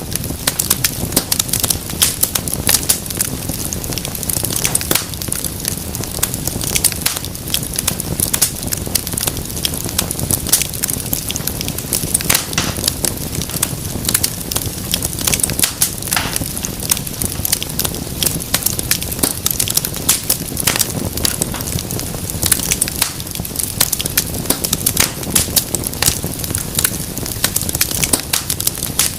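Wood fire burning in a fireplace: dense, irregular crackling with sharp snaps over a steady low rush of flame.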